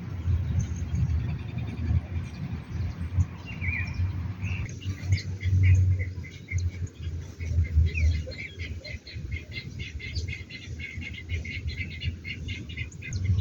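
Small birds chirping, with a dense run of rapid, repeated short calls from about five seconds in, over a steady low rumble.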